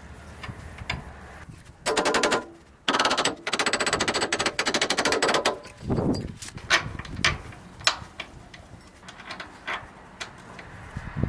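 Rapid, even clicking of a ratchet wrench in two runs, the second about three seconds long, followed by a few scattered metal knocks and clinks: bolts being run down while a bearing pillow block is refitted.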